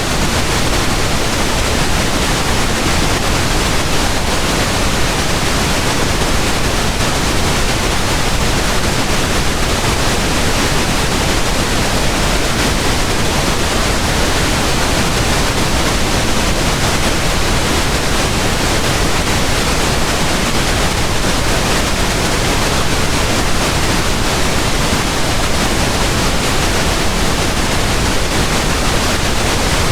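Steady pink noise: an even, unchanging hiss across the whole range, fuller in the low end than white noise, with no events or changes.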